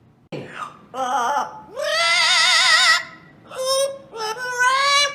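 A parrot singing a series of high, operatic-style notes with a wavering vibrato, the longest held for about a second in the middle.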